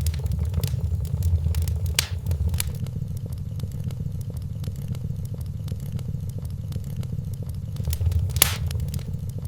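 Wood fire crackling in a fireplace over a steady low rumble, with scattered small crackles throughout and louder pops about two seconds in and near the end.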